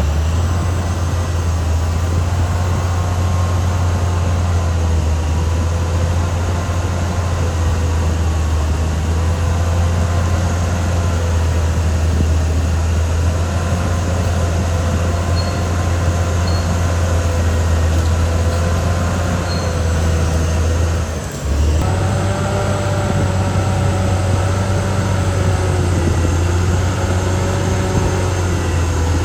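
Caterpillar D6R XL bulldozer's diesel engine running steadily under load as it works, a deep constant drone with wavering higher whines over it. The level briefly drops a little past two-thirds of the way through, then picks up again.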